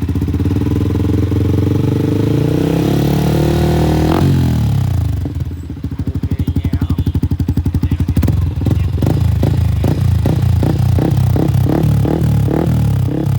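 Yamaha Exciter 155 single-cylinder engine through an aftermarket Akrapovic R3 exhaust, revving up over about four seconds and then dropping back. From about eight seconds in comes a quick run of short throttle blips, about three a second.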